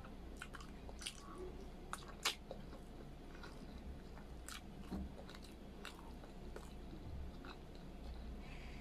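Close-miked chewing of braised pork humba and rice: scattered wet mouth clicks and smacks, the sharpest a little past two seconds in.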